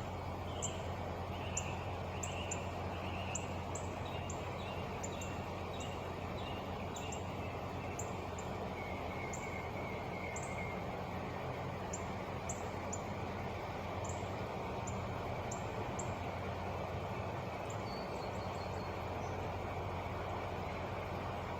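Truck engine idling with a steady low hum, while birds chirp over it in many short, high, repeated notes.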